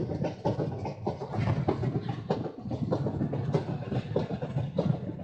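Passenger train running at speed, heard from on board: wheels clattering over the rails in quick irregular knocks over a constant rumble.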